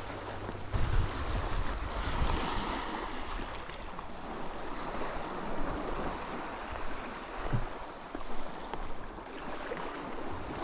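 Mediterranean sea surf washing against the shore in a steady rushing wash, swelling about two seconds in. Wind buffets the microphone now and then, loudest about a second in.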